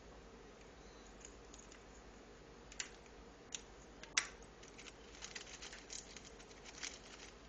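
African grey parrot working at a peanut stuffed inside a chew toy with its beak, making a few sharp cracks about three and four seconds in, the loudest just after the middle, then a quick run of small clicks and nibbles.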